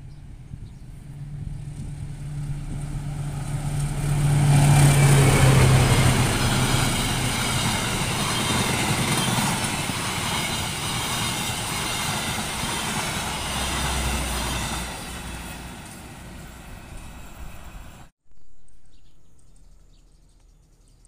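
Diesel-hauled passenger train passing close by: the locomotive's engine drone builds as it approaches, then a loud, steady rush and clatter of coach wheels on the rails for about ten seconds, fading as the train moves away. The sound cuts off abruptly near the end.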